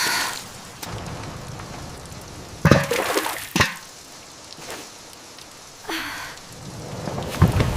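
Steady rain hiss with a few irregular swishes and rustles, and a louder bout of handling noise about three seconds in that ends in a sharp knock.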